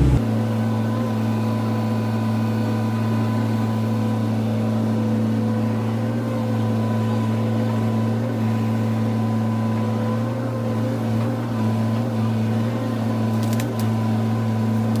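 Hydraulic excavator's diesel engine running at a steady, even pitch, with a couple of faint clicks near the end.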